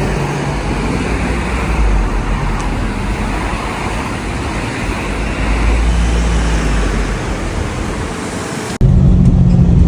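Steady road and engine noise of a moving vehicle, with a low rumble. Just before the end it cuts abruptly to a louder, steadier engine drone.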